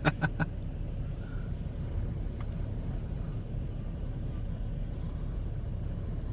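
Steady low rumble of storm wind and heavy surf, with no single wave crash standing out.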